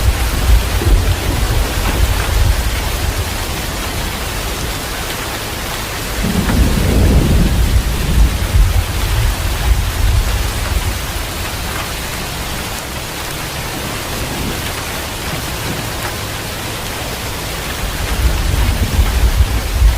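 Heavy rain falling steadily, with low rolls of thunder: one rumbling on at the start, one swelling about six seconds in, and another building near the end.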